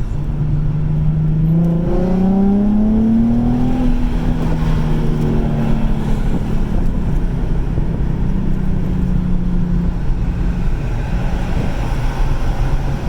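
Car engine running with a steady rumble, its pitch rising as it accelerates about two seconds in, then holding.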